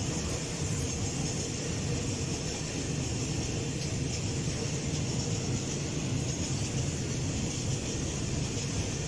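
Freight train rolling past steadily, the wagons running on the rails with a continuous low rumble.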